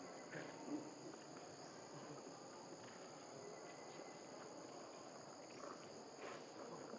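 Faint, steady high-pitched drone of insects, two unbroken high tones, with light rustling and a few soft ticks beneath.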